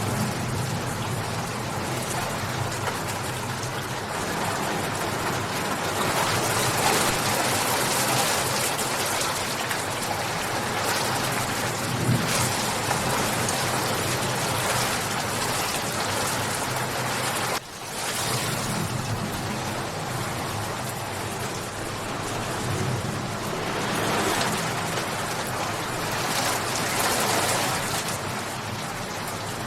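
Steady rain falling, an even hiss with a momentary break about eighteen seconds in.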